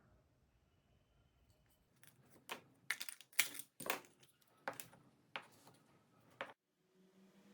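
A run of sharp clicks and taps of small hard parts, about eight over four seconds, that cuts off abruptly; a faint steady hum starts near the end.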